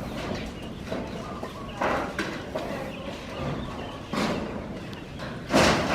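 Construction work: a few separate knocks and clatters, the loudest near the end, over a steady background.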